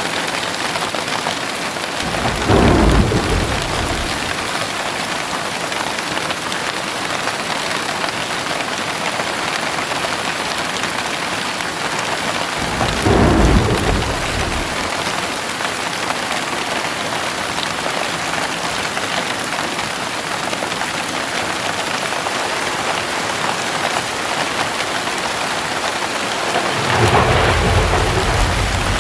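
Heavy rain falling steadily, with thunder rumbling three times: briefly about two seconds in, again near the middle, and a longer rumble building near the end.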